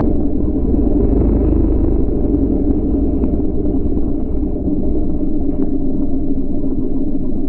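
Steady, muffled low rumble of a moving vehicle, with no distinct engine note or impact.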